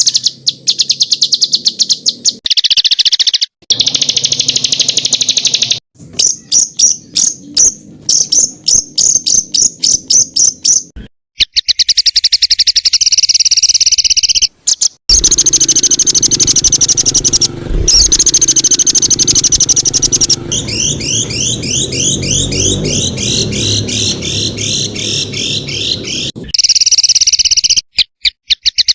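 Songbird singing fast, dense runs of high, rapidly repeated notes in bursts, with abrupt breaks between them. In the second half there is a run of quick downward-sliding notes, several a second.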